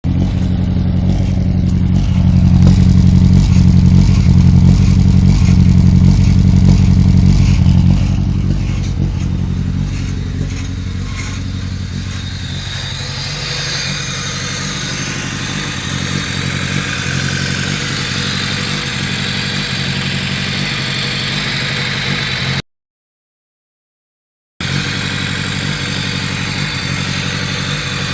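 1995 Honda Civic EX's 1.6-litre four-cylinder engine idling just after a cold start. The engine is louder for the first eight seconds or so, then quieter and steady. The sound cuts out completely for about two seconds near the end.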